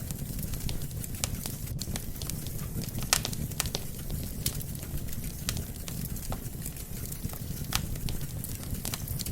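Wood fire burning steadily: a low rumble of flames with frequent sharp, irregular crackles and pops from the burning logs, one louder pop about three seconds in.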